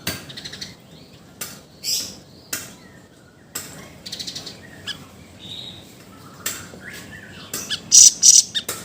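Siri-siri bird singing in loud, sharp high chirps in separate bursts, with a rapid string of notes about four seconds in and the loudest cluster near the end.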